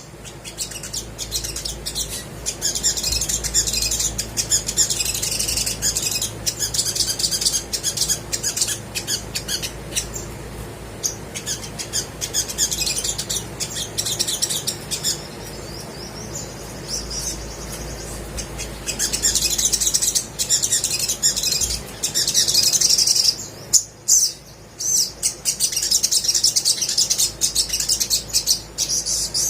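Olive-backed sunbird singing in fast, high-pitched runs of chirps and sharp twittering notes, with brief lulls between bursts.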